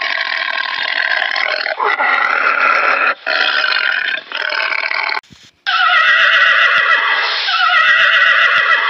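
Loud, drawn-out animal calls, several in a row, each cut off abruptly where one clip gives way to the next, with a brief silence a little past halfway.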